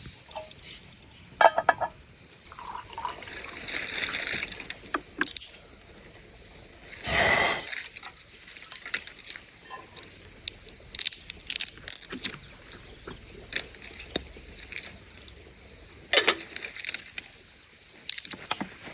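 Water trickling and splashing, with scattered light clinks and knocks and one louder rush of about a second around seven seconds in. A steady high insect chirring runs underneath.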